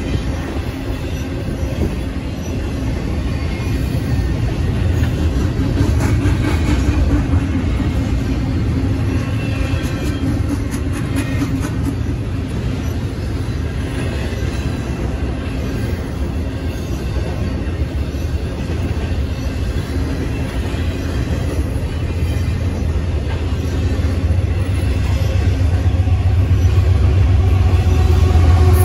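Double-stack intermodal freight train rolling past: a steady low rumble of steel wheels on the rails, with faint clicks. In the last few seconds the rumble grows louder and steady engine tones join in as the mid-train diesel locomotives approach.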